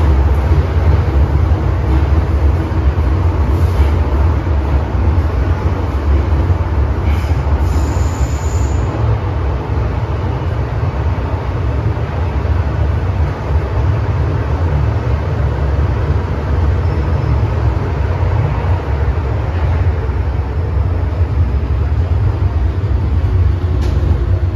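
MTR M-train electric multiple unit running along the line, heard from on board as a steady loud rumble of wheels on rail, with a brief high-pitched tone about eight seconds in.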